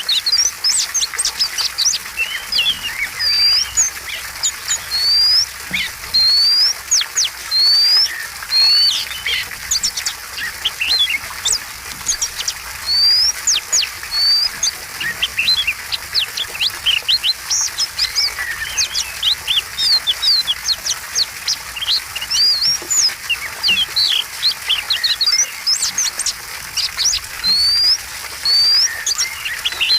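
Oriental magpie-robin (kacer) singing a long, varied song: clear rising whistles mixed with rapid sweeping notes, phrase after phrase with short pauses.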